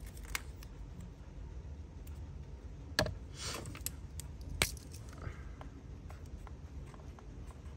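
Metal Zippo lighters being handled, clinking lightly, with two sharp metallic clicks about three seconds and four and a half seconds in.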